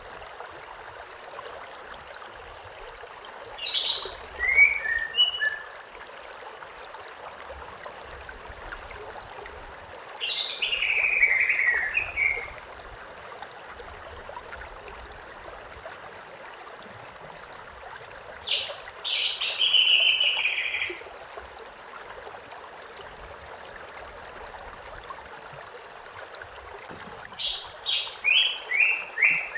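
A songbird singing four short phrases about eight seconds apart, each opening with high notes and falling into a run of chirps, the last a quick series of repeated notes near the end. Under it, the steady rush of a river or stream.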